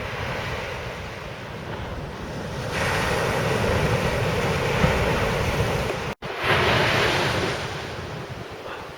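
Surf breaking on a sand beach with wind buffeting the microphone, a steady rushing that swells louder about three seconds in. It cuts out for an instant a little after six seconds, comes back loud, then eases off near the end.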